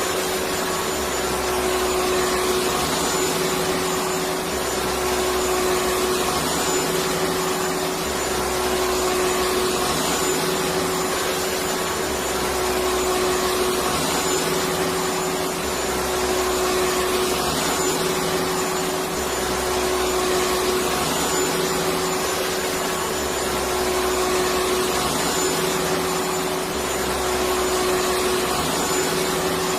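Electric vacuum cleaner running continuously: a steady rush of air over a constant motor tone, with a low hum that swells and fades about every two and a half seconds.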